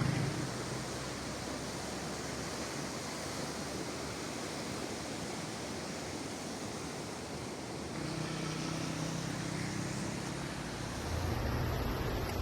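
Steady rushing of fast-flowing floodwater. About eight seconds in, a low hum joins it.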